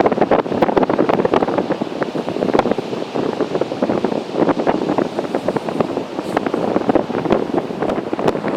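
Strong, gusty wind buffeting the microphone: a loud, continuous rush broken by many short, sharp crackles.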